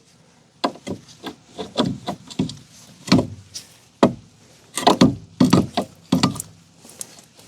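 A string of irregular knocks and clunks from tools and suspension parts being handled and fitted during a front strut replacement. The louder knocks come around three to six seconds in.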